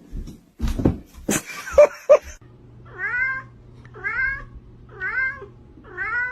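A cat meowing four times, about once a second, each meow rising and falling in pitch. In the first two seconds, a few knocks and short sharp sounds.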